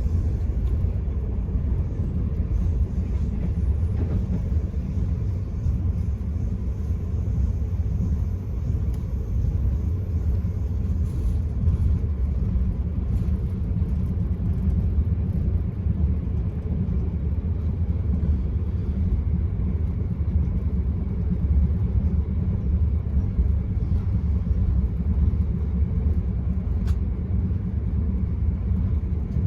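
Steady low rumble of an Enterprise passenger train running along the line, heard from inside the carriage, with a few faint ticks over it.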